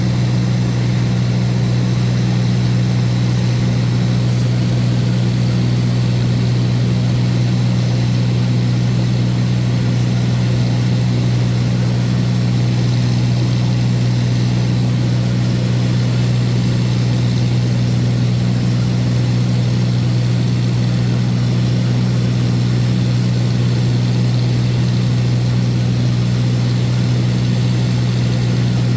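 Light sightseeing aircraft's engine and propeller droning steadily in level flight, heard from inside the cabin: a loud, unchanging low hum.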